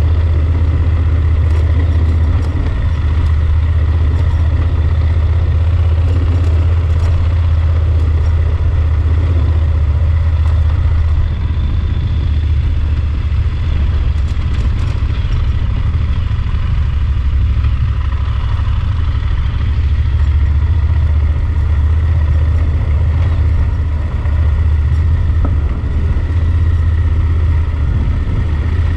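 Yamaha Super Ténéré XT1200's parallel-twin engine running steadily on the move, a deep continuous rumble.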